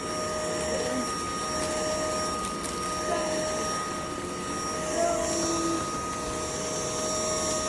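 UNINELL UV3 cordless stick vacuum running with a steady whirring whine.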